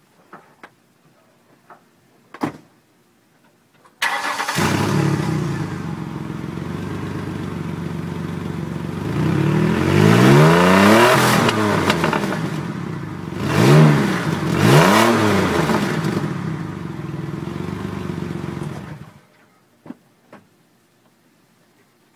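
A 2002 Ford Explorer with new headers and exhaust pipes starting up about four seconds in after a few faint clicks, idling, then revved up once longer and twice briefly, each rev rising and falling back to idle, before being switched off.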